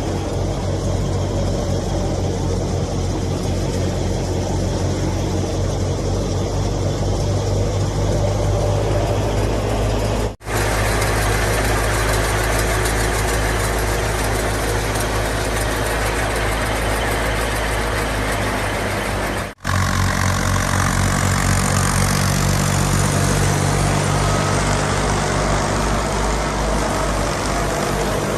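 Fiat 480 tractor's diesel engine running steadily under load, with the noise of the wheat thresher it drives. The sound cuts out for an instant twice, about ten and twenty seconds in.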